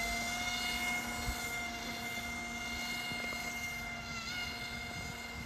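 Small electric motor of a radio-controlled model boat running at a steady speed, a steady whine with a brief dip in pitch about four seconds in.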